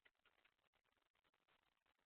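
Near silence: only a very faint background hiss.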